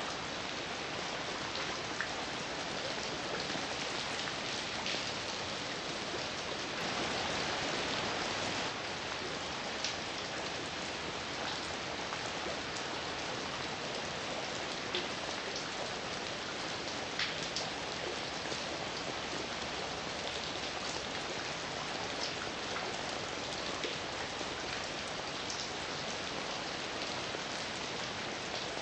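Heavy rain falling steadily, a dense even hiss with individual drops ticking out now and then. It swells a little louder for a couple of seconds about seven seconds in.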